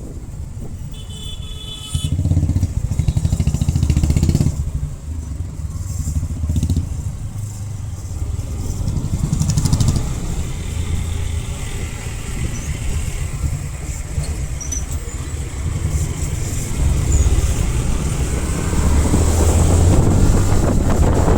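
Motorcycle engine, a Bajaj Pulsar NS125 single, running on the move, its level and pitch shifting in steps as the throttle changes; it gets louder about two seconds in.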